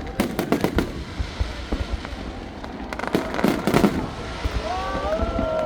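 Fireworks going off: a rapid run of bangs and crackling pops, densest a little past halfway, with a few rising and falling whistles near the end.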